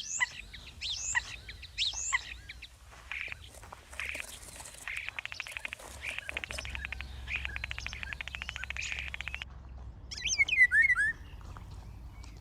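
Wild birds chirping and singing: quick rising and falling chirps at first, then a fast rattling trill that stops suddenly, and a loud run of falling notes near the end.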